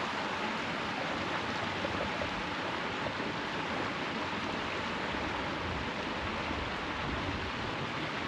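Mountain valley stream running: a steady, even rush of water.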